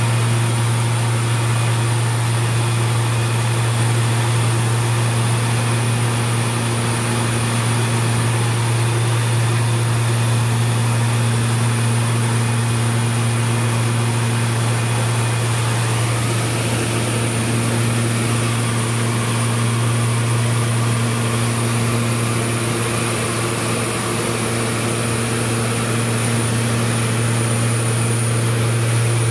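Light aircraft's propeller engine droning steadily in flight, a constant low hum with its overtones shifting slightly about halfway through.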